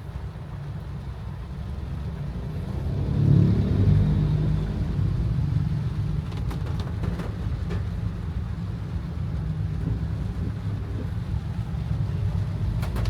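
Low rumble of a car driving, swelling for a moment about three seconds in, then running on steadily.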